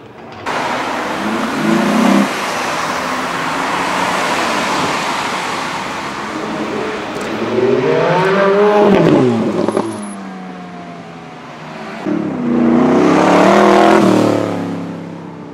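Engines of American cars accelerating hard away, one after another: a finned 1960 Chevrolet pulling off with a loud rushing noise over the first few seconds, a Chevrolet Camaro revving up to a peak about eight seconds in, then a Cobra roadster replica revving hard past near the end.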